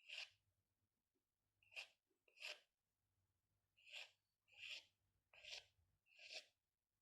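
Faint strokes of a drawing pen on paper: about seven short scratchy swipes at uneven intervals.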